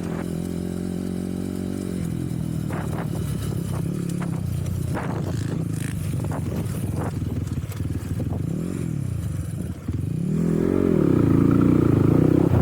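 Enduro motorcycle engine running, with scattered knocks and scrapes; near the end the throttle is opened and closed and the engine revs up and down louder.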